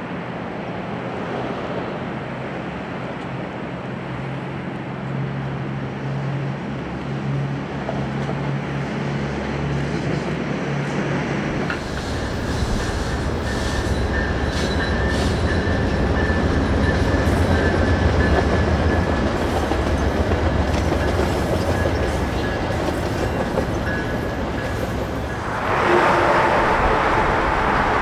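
Diesel passenger trains running on the rails. First comes a steady engine drone, then about twelve seconds in a louder, deep rumble of a locomotive-hauled train with a thin, steady high squeal over it. Near the end there is a rushing hiss as another train goes by.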